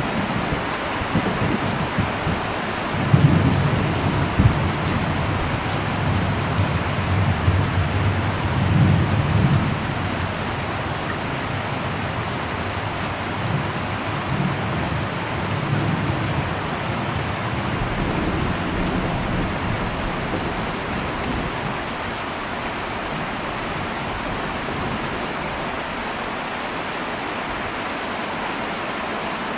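Heavy rain falling steadily on an old metal roof, with a low rumble of thunder that starts about three seconds in and dies away past the middle.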